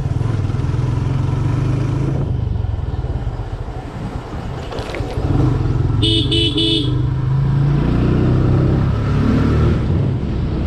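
TVS Apache RTR 160 motorcycle's single-cylinder engine running at riding speed, with three quick horn beeps about six seconds in, sounded on a blind bend.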